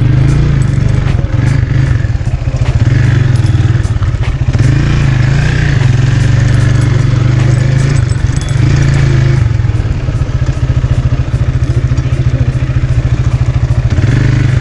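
Motorcycle engine running loud and steady while riding, its pitch wavering slightly as the revs shift.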